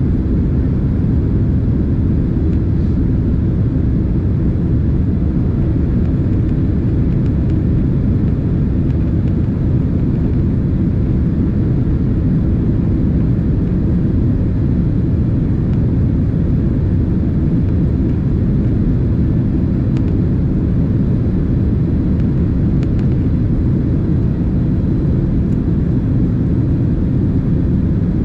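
Cabin noise inside a Boeing 767 twin-engine airliner: a steady, loud low rumble of engines and airflow that does not change.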